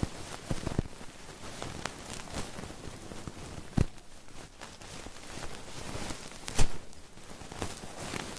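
Close-miked ASMR trigger sounds: scattered soft taps, scratches and clicks right at the microphone over a steady hiss, with a sharper knock a little before halfway and the loudest one about two-thirds of the way in.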